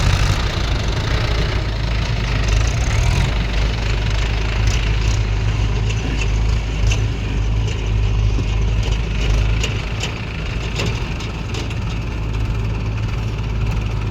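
Heavy diesel machinery engine running steadily with a deep low rumble, with a few faint knocks and clicks over it.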